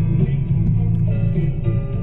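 Instrumental stretch of a Spanish-language ballad playing on a radio, with guitar and bass and no singing.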